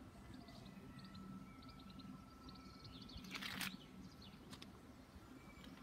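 Quiet outdoor ambience with small birds chirping, over a faint steady low hum; a brief rustle about three and a half seconds in.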